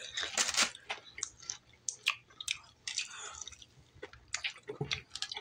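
A person chewing breaded fried fish and french fries close to the microphone, with irregular wet smacking and clicking mouth sounds.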